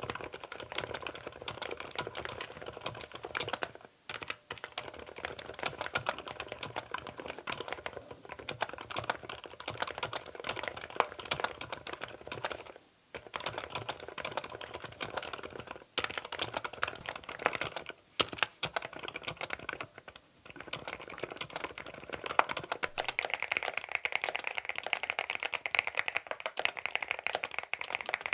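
Steady fast typing on a CIDOO V87 aluminium mechanical keyboard fitted with Epomaker silent Sea Salt linear switches: a dense, muted patter of keystrokes with a few brief pauses. About three quarters of the way through the sound changes, and the keystrokes become brighter and higher-pitched.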